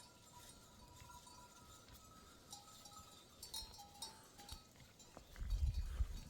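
Livestock bells ringing faintly among a herd of sheep and goats, with a few sharp clinks, and a louder low rumble near the end.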